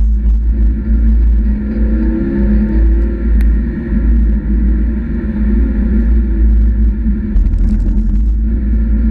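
Mazda MX-5 NB's four-cylinder engine running at speed on a wet track lap, its pitch rising and falling with the throttle, over a heavy low rumble. A short burst of hiss comes near the end.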